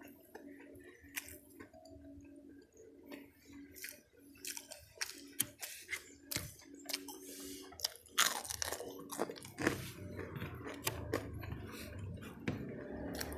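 Close-up chewing and crunching of crispy fried chicken (ayam geprek) with rice, irregular crackly crunches that get louder and more frequent about eight seconds in.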